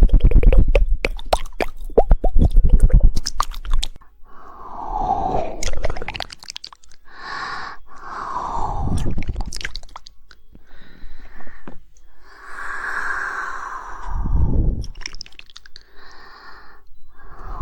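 Close-miked ASMR mouth sounds: a quick run of tongue clicks, the 'woodpecker' clicking, for about the first four seconds, then slower wet mouth and lip sounds.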